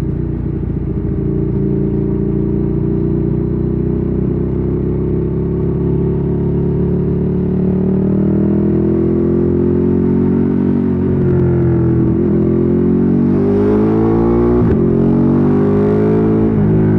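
Ducati Streetfighter 848's L-twin engine through a Termignoni exhaust, running at steady revs, then accelerating from about eight seconds in. The revs climb and drop sharply three times near the end as it shifts up through the gears.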